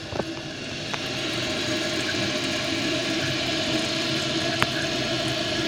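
Toilet tank refilling after a flush: water rushing steadily through the fill valve into the open tank, growing louder about a second in and then holding steady.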